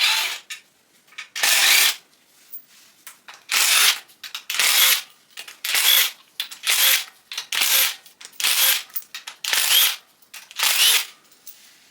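A cordless power tool turning bolts on an LS1 engine's timing cover, run in about ten short bursts roughly a second apart. Each burst carries a faint rising whine as the motor spins up.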